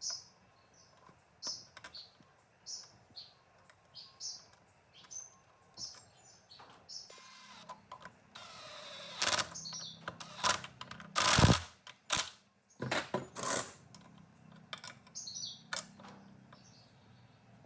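A bird chirping over and over, about one short call a second, with a burst of work noise in the middle: a scraping hiss, then a run of loud sharp knocks and clacks, the loudest about two-thirds of the way through.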